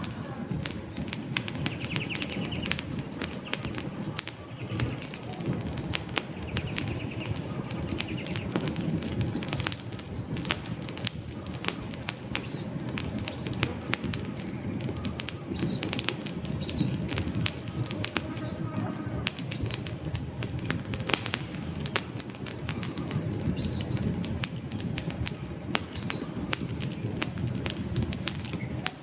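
Wood campfire burning steadily: a low rumble of flame with dense crackling and sharp pops from the logs throughout.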